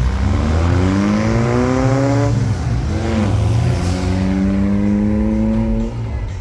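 Car accelerating hard from a standstill. The engine note climbs steadily, drops at a gear change about two and a half seconds in, climbs again through the next gear, then eases off near the end.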